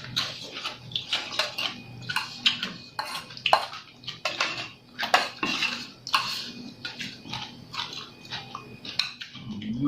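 Close-up eating sounds: crunchy chewing of crisp salad, wet mouth noises and utensils clinking against dishes, as a run of irregular short clicks and crackles.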